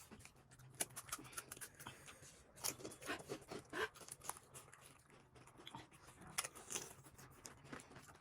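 Soft, scattered crunches and clicks of someone eating pani puri, the crisp puri shells cracking and being chewed, with a cluster about three seconds in and another near the end.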